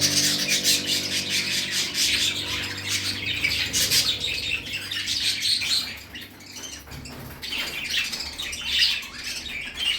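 Several budgies chattering and chirping together, a dense run of quick high chirps and squawks, with a brief lull about six seconds in.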